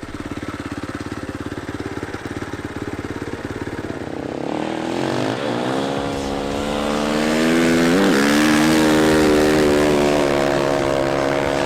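Dirt bike engine running at low revs with an even, fast pulse, then revving up about four seconds in and holding high revs, with a brief dip and surge about eight seconds in.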